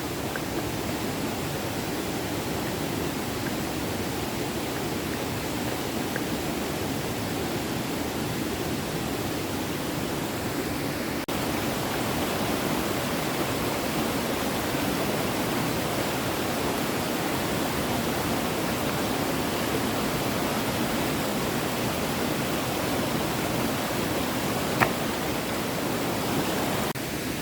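A small stream's water running steadily, growing a little louder after a brief break partway through, with one sharp click near the end.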